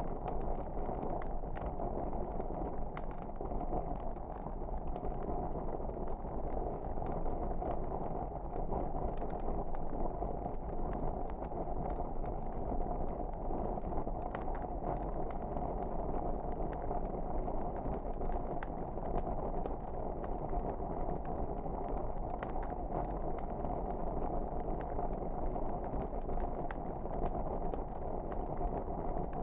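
Wood fire burning in a fireplace: a steady low rush of flames with frequent small, sharp crackles and pops scattered throughout.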